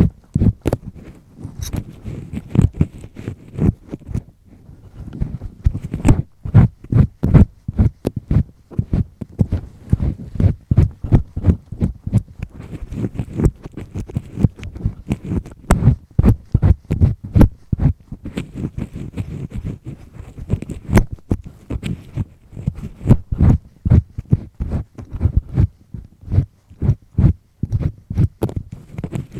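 Double-disc ear pick scraping inside an ear canal, heard very close up: a rapid run of short rasping strokes, several a second, easing off briefly about four seconds in and then resuming.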